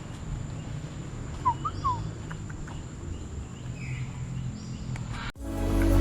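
A bird gives three quick chirps about a second and a half in, over a steady low background rumble. Music starts abruptly near the end.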